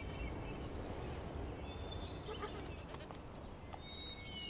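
Faint outdoor ambience with a few thin, high bird chirps and scattered light clicks.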